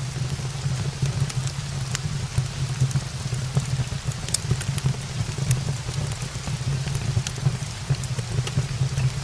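Steady rain falling, with a constant low rumble underneath and scattered sharp clicks of drops throughout.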